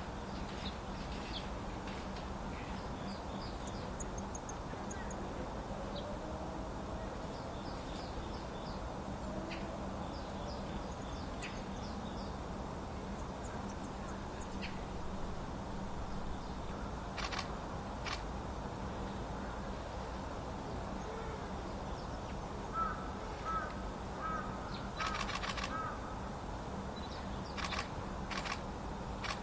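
Wild birds in a winter forest: faint, scattered high chirps of small birds over a steady distant hum. About two-thirds of the way through comes a run of harsher repeated calls, with a few brief wing flutters and sharp noises near the end.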